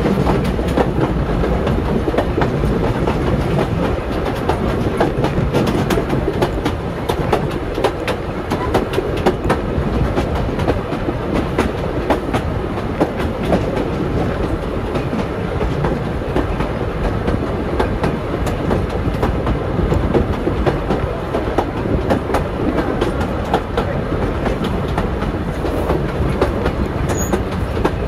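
Steam-hauled heritage passenger train running on the rails, heard from a carriage window: a steady rumble of wheels on track with frequent clicks over the rail joints.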